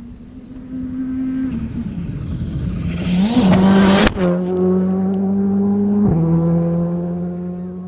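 Rally car engine revving up under acceleration, then changing gear twice, each shift a sudden drop in pitch to a new steady note. A sharp crack comes at the first shift, about four seconds in.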